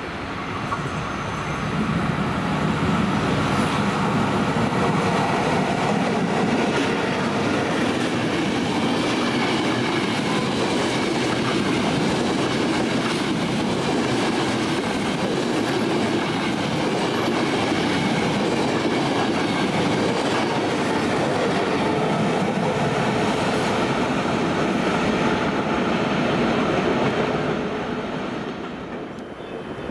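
Electric Intercity passenger train running past at speed: a loud, steady rumble of wheels on rail with a clattering rhythm over the rail joints. It builds about a second in and fades as the train draws away near the end.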